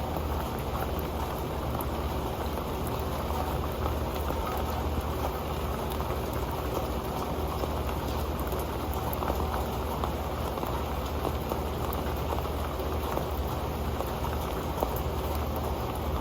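Rain falling steadily onto an old pan: a dense, even patter of drops with many small sharp ticks.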